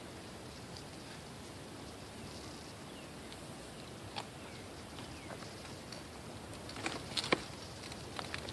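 Wind rushing steadily with a few faint, short, falling bird chirps. There is a single sharp click about four seconds in and a cluster of clicks and taps near the end.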